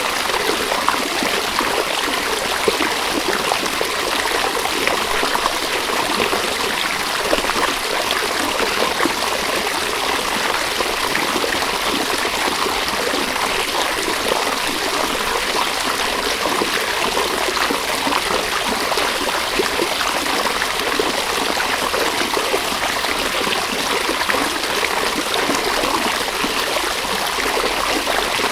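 River water flowing steadily: an even, unbroken rush of running water, with little low rumble.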